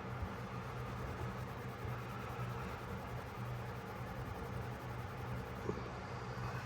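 A steady low electrical hum, with one light tap near the end.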